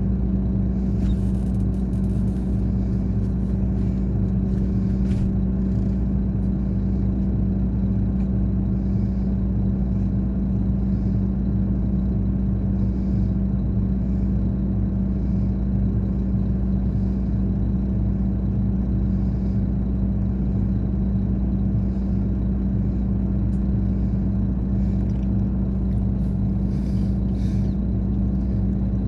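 Scania K420 coach's diesel engine running at a steady, unchanging speed, a constant low drone with no revving.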